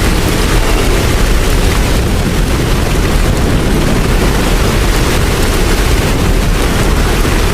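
Steady rain: a dense, even hiss with a deep rumble underneath, holding constant throughout.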